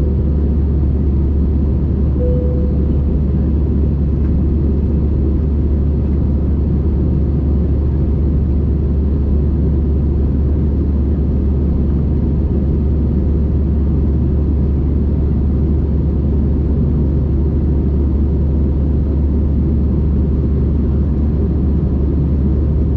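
Steady jet engine and airflow noise heard inside the cabin of an Airbus A320 airliner, a constant low hum under an even rushing sound.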